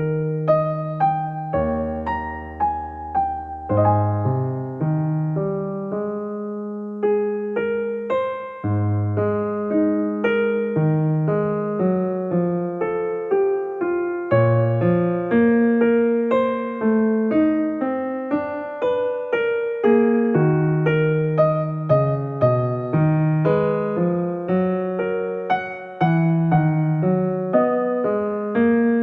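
Background music: a gentle solo piano or electric piano playing a steady flow of single notes and chords.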